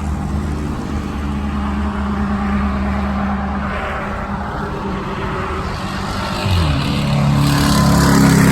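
2006 Dodge Magnum's 5.7 HEMI V8, muffler and resonator deleted, running at a steady low note, then accelerating about six and a half seconds in with the pitch rising and the sound growing louder toward the end.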